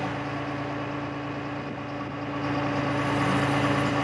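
The 2005 Freightliner M2 bucket truck's diesel engine running steadily with its hydraulic system engaged, a steady pitched hum that grows a little louder near the end.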